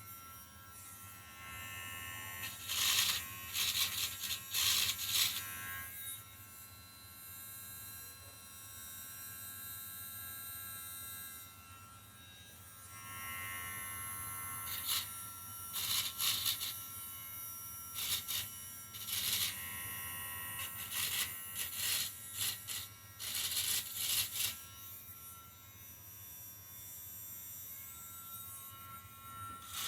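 A cheap handheld rotary tool spins with a steady high whine, broken again and again by short spells of harsh grinding as the bit is pressed against rough edges of an engine block to take off burrs.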